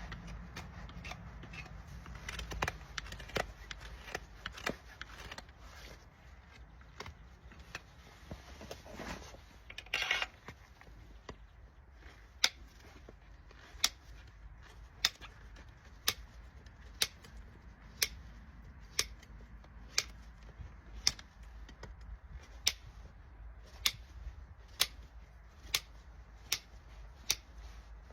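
Hoof trimming tools working on a horse's hoof: irregular sharp clicks and a short scrape in the first ten seconds, then a steady run of sharp clicks about once a second.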